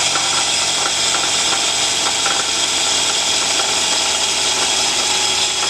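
Toyota Camry running with its newly replaced AC compressor engaged and the AC on high, a steady mechanical whir with faint high whines, while the system is being recharged.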